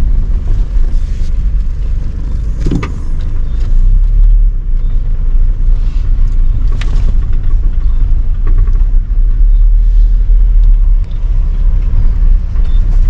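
Car driving, with a steady low rumble of road and engine noise heard inside the cabin and a couple of brief knocks.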